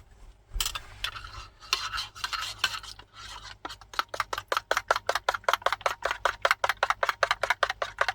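A spoon stirring instant iced coffee mix into cold water in a cup, clinking against the sides in a fast, even rhythm of several clinks a second. The stirring starts about half a second in.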